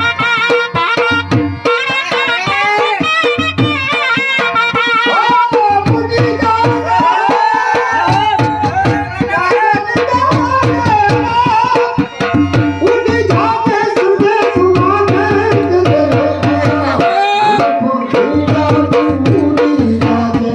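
Gujarati folk music: a sarnai, a double-reed pipe, plays a wavering, ornamented melody over a steady, fast dhol beat.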